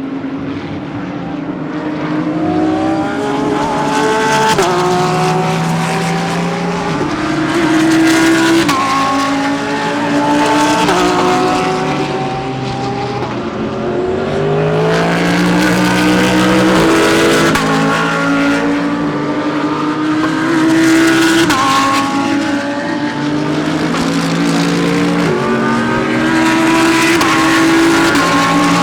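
GT3 race cars accelerating hard through the gears, each engine's pitch climbing and dropping back at every upshift, several cars passing one after another.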